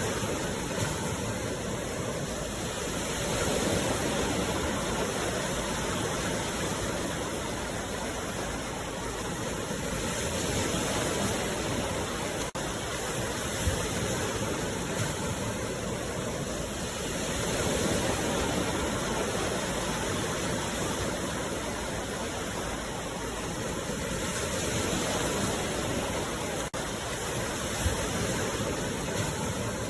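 Sea waves breaking and washing in: a steady rush of surf that swells and eases every six or seven seconds.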